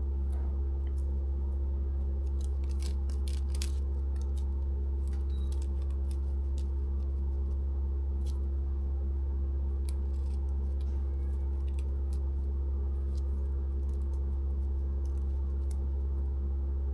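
Short sharp clicks and snips from handling small fishing tackle, bunched about three to four seconds in and recurring now and then, over a steady low hum.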